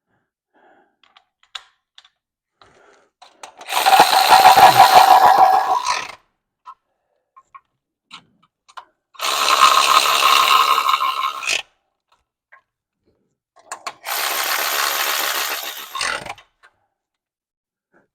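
Impact gun running nuts down onto studs in three bursts of about two seconds each, the first the loudest with rapid hammering as it tightens. Small clicks of sockets and parts being handled come between the bursts.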